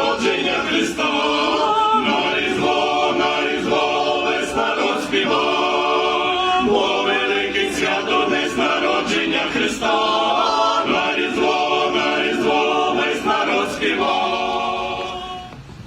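Church choir singing a Ukrainian Christmas carol a cappella, in sustained chords, the last chord fading away near the end.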